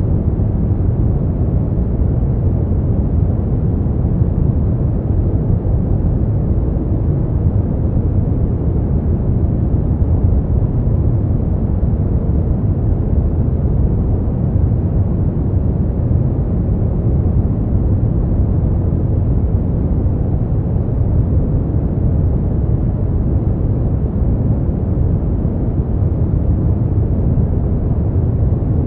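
Steady brown noise: a constant deep rumbling hiss, strongest in the bass and fading out toward the highs, with no changes or events.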